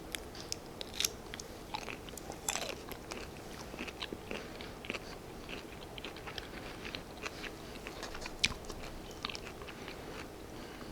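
Close-miked eating sounds: someone biting and chewing shrimp with cocktail sauce, full of small wet mouth clicks and smacks, one louder click about eight and a half seconds in.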